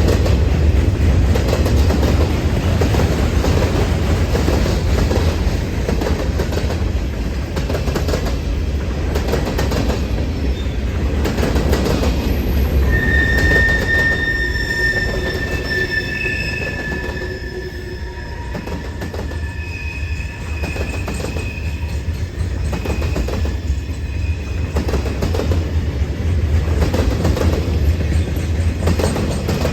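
Freight train's cars rolling past with a steady rumble of wheels on the rails. From about halfway, high-pitched wheel squeal rings over it in several thin steady tones.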